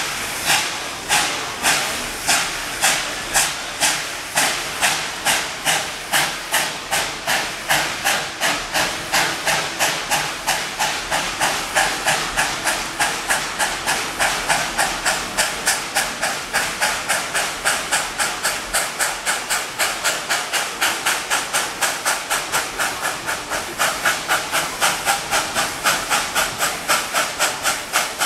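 Narrow-gauge steam locomotive chuffing as it pulls the train away, its exhaust beats quickening from about two a second to about three a second, then holding steady.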